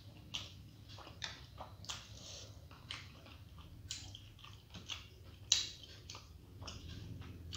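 Close-up mouth sounds of chewing soft steamed vegetable momos: wet smacks and clicks in quick succession, with one sharper click about two-thirds of the way through.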